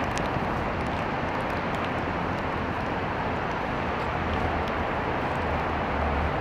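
Steady hiss of rain falling on wet stone paving, with wind buffeting the microphone in low, uneven rumbles.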